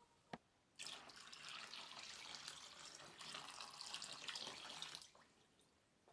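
Water running from a tap for about four seconds, starting just under a second in and shut off about five seconds in, after a single click.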